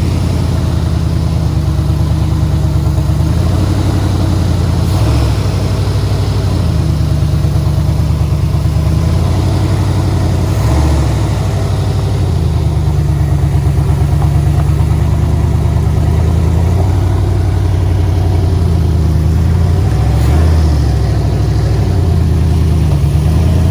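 2nd-gen Dodge Ram's V8 running on open headers, mostly at idle, with a few small revs of the throttle.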